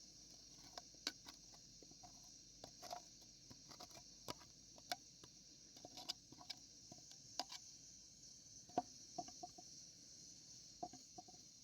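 Scattered light clicks and taps at irregular intervals, the sharpest about nine seconds in, over a faint steady high hiss.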